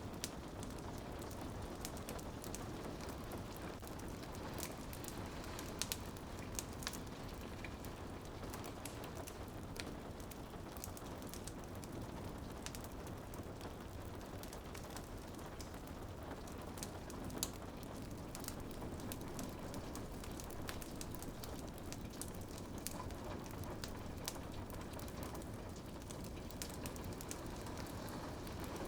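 Rain falling steadily on a window, with a wood fire crackling over it: many small sharp snaps scattered throughout and a few louder pops.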